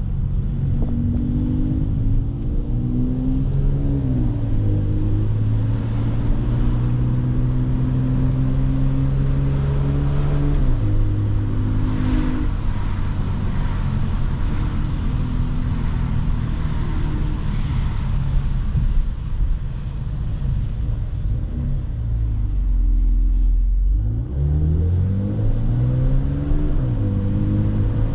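Mercedes-AMG C43 engine and exhaust under way, the engine note climbing under acceleration, then holding steady. It steps down in an upshift about ten seconds in, falls to a low rumble about three-quarters through, then revs up again with another shift near the end.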